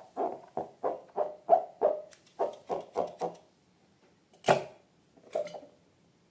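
Slime being squeezed and kneaded by hand: soft, wet squelches in an even rhythm of about three a second, stopping about three and a half seconds in. Two louder, sharper squelches follow about a second apart.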